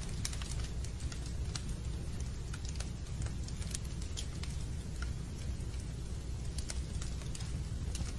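Fireplace fire crackling: scattered irregular pops and snaps over a steady low rumble.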